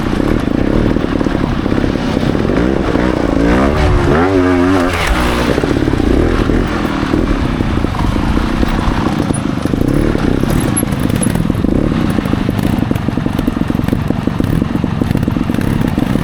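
Trials motorcycle engine running under the rider's throttle, its pitch swinging up and down sharply about four seconds in as the throttle is blipped, then running on with smaller rises and falls.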